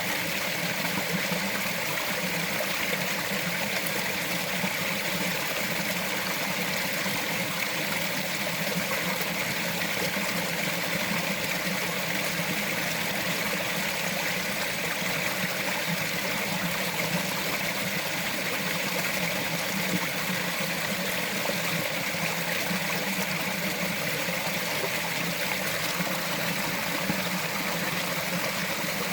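Small forest stream flowing and trickling over rocks, a steady unbroken rush of water.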